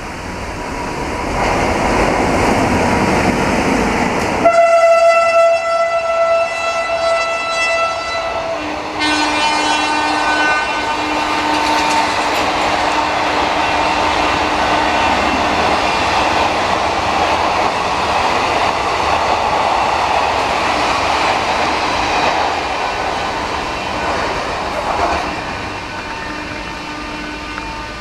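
WAP-7 electric locomotive sounding its horn as the train runs through the station at speed. There are two long blasts, the first starting about four seconds in and the second joined by a lower note. Wheels clatter over the rail joints throughout.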